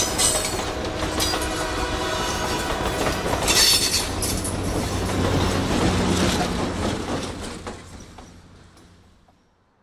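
Passenger train cars rolling past, wheels clacking over the rail joints. The sound fades away over the last few seconds once the end of the train has gone by.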